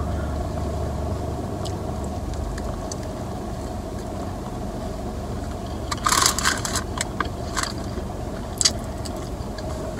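Close-up chewing of a mouthful of double cheeseburger, with a run of wet crackling mouth clicks a little past the middle and one more near the end, over a steady low hum in the car cabin.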